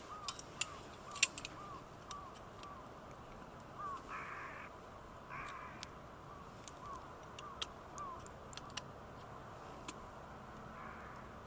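Crows cawing twice, harshly, in the middle, over a bird's run of short evenly repeated calls, with scattered sharp clicks and snaps.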